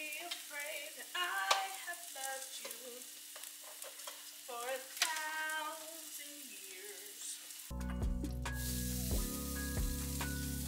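Plant-based sausage sizzling and frying in a pan as it is stirred, over background music. About eight seconds in, the music changes abruptly to a fuller track with a bass line.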